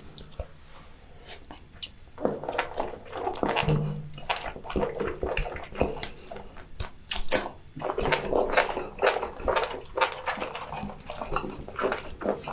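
Close-miked wet mouth sounds of biting into and chewing a sauce-coated piece of boiled octopus: sticky squelches and sharp smacking clicks, starting about two seconds in.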